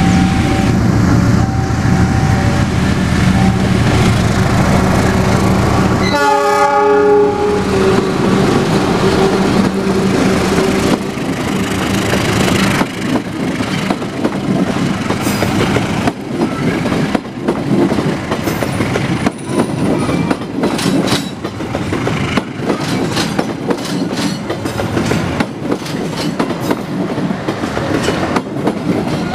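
A passenger train passing close: the diesel locomotive's horn and engine sound as steady tones for the first half, then the carriages roll by with a rapid clatter of wheels over the rail joints.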